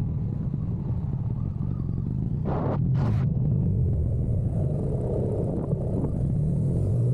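Motorcycle engine running steadily on the move, a low hum, with two short whooshes about two and a half and three seconds in.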